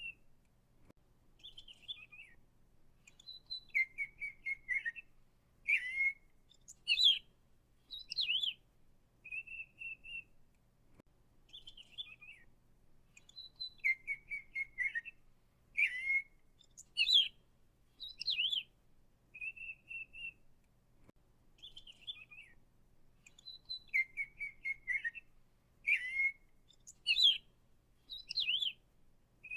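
A songbird singing: short chirps, quick trills and level whistled notes, high-pitched, in the same sequence of phrases repeated about every ten seconds.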